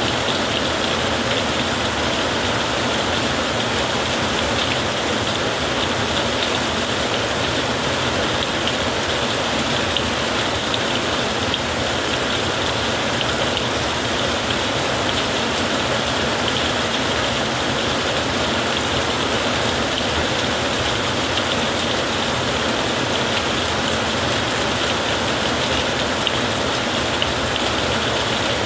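Heavy rain falling steadily, an even unbroken downpour with no thunder clap standing out.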